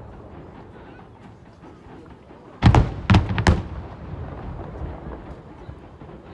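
Aerial fireworks shells bursting: three loud bangs in quick succession about two and a half seconds in, each with a short rumbling tail.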